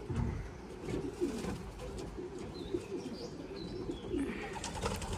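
Racing pigeons cooing, many short low coos overlapping throughout.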